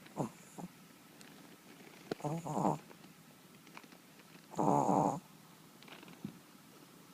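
Yorkshire terrier snoring in its sleep: two raspy half-second snores about two and a half seconds apart, after a couple of short, fainter snuffles at the start.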